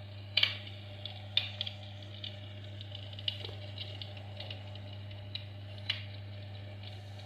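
Logs burning in a fireplace, crackling with sharp, irregular pops about once a second, the loudest near the start, over a steady low hum.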